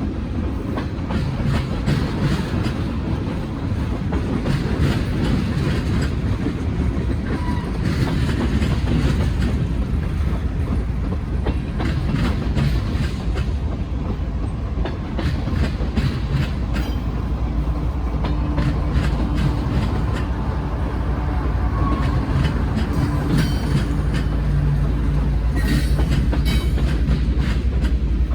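Norfolk Southern M22 freight train's cars rolling past, wheels clicking over rail joints over a steady low rumble.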